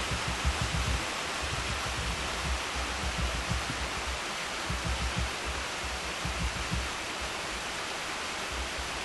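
Waterfall rushing in a steady roar of falling water, with irregular low rumbling bumps underneath.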